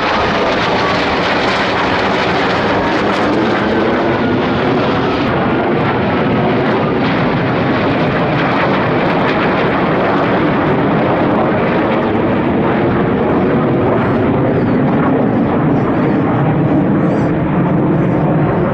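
Military aircraft flying past overhead: a loud, steady rush of engine noise, with a thin whine gliding down in pitch over the first several seconds.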